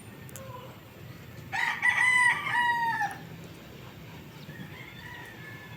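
A bird giving one loud call of about a second and a half, in several linked notes, starting about a second and a half in.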